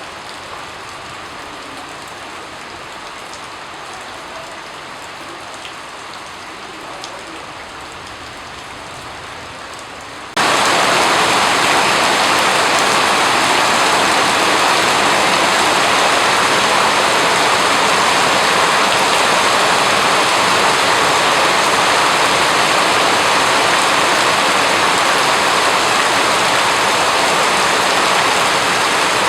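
Steady rain falling. About ten seconds in it cuts suddenly to a much louder, heavier, hissier downpour that then holds steady.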